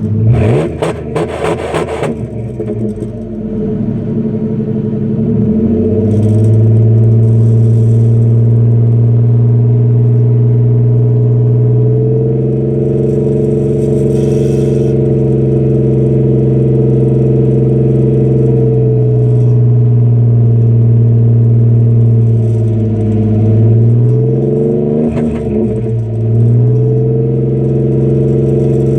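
A Ford Ranger's exhaust through a Flowmaster Super 40 muffler, running at a steady engine speed with a strong, steady low note. The note sags and then climbs back up near the end. It opens with about two seconds of clattering noise.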